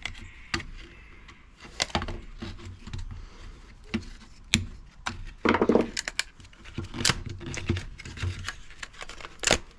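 Irregular clicks, knocks and cracks of plastic as a washing machine's control circuit board is pried up out of its plastic mounting with a hand tool, with a brief pitched creak about five and a half seconds in.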